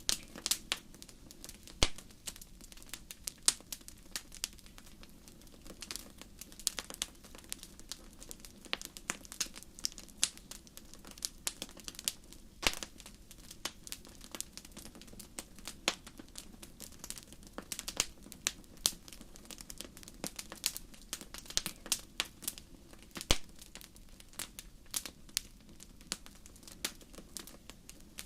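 Crackling fire: wood snapping and popping in irregular sharp clicks over a faint low steady rumble.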